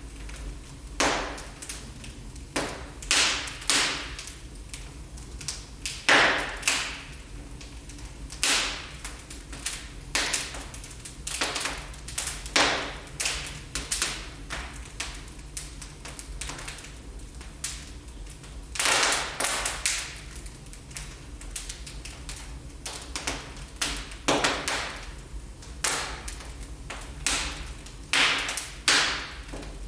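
Wood fire burning in a fireplace, crackling with irregular sharp pops and snaps over a steady low rumble, with a few longer, louder crackles such as one a little after six seconds and one around nineteen seconds.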